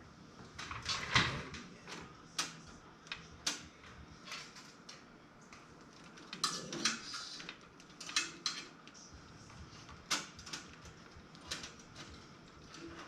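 Irregular clicks, taps and light clatter of hands working with cables and parts during a PC build, with the sharpest knock about a second in.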